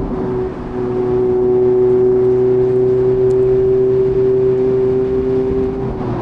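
Mazda MX-5's 1.5-litre four-cylinder engine pulling at steady revs while driving, with a brief dip in level about half a second in.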